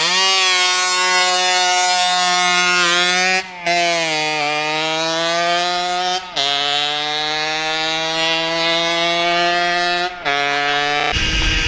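Yamaha TZR's two-stroke engine revving high under acceleration, its pitch climbing in each gear. It breaks off briefly three times as the rider shifts up and drops to a lower pitch after each shift.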